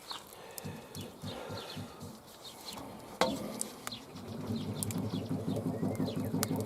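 Small birds chirping in many short falling chirps, over sharp snaps of a crackling campfire, with one louder snap about three seconds in. A low, pulsing hum comes up in the second half.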